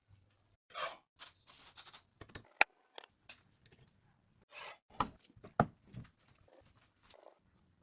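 Hand work on rusty metal parts: irregular clinks and knocks of tools and pieces being handled and set down, between short scraping sounds.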